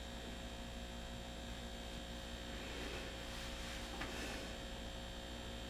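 Quiet room tone with a steady low electrical hum.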